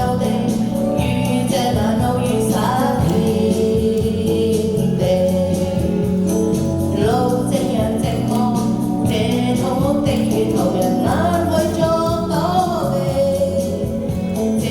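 Pop ballad singing over a backing track with a steady bass and keyboard accompaniment, a cover of a Cantopop song.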